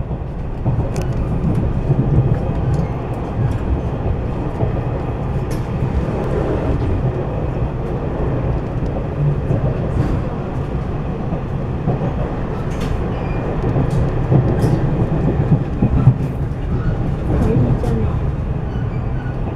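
Inside a moving railway passenger coach: a steady low rumble of the wheels running on the rails, with scattered light clicks and rattles.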